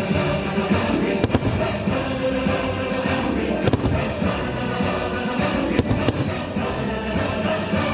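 Fireworks bursting as several sharp bangs over loud show music, with two bangs in quick succession about three-quarters of the way through.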